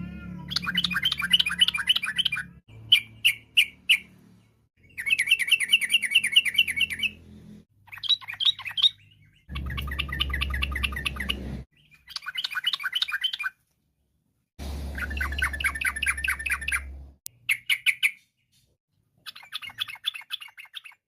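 Yellow-vented bulbul (trucukan) singing: about nine short bouts of rapid, bubbly chattering song, each a second or two long, broken by brief silences.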